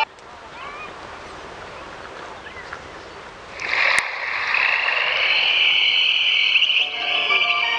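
A chorus of frogs calling: faint chirps at first, then a loud, dense, continuous croaking that sets in about halfway through and holds on.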